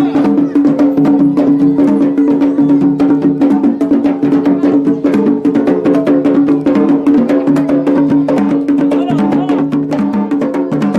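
Traditional Yemeni wedding procession music: drums and mirfa' drums beating a fast, dense rhythm over a steady held tone.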